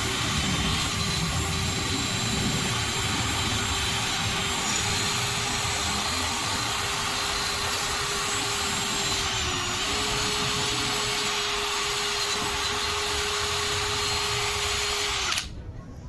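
Cordless drill running steadily with a rust-cleaning head scouring a rusty surface, a constant whine over a rough scraping noise. The whine dips briefly about ten seconds in, and the drill stops suddenly near the end.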